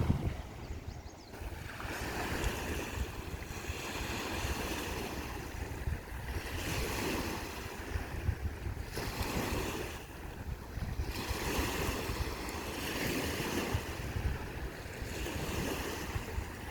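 Small Lake Superior waves washing onto a sandy beach, the surf swelling and falling away every few seconds. Wind rumbles on the microphone underneath.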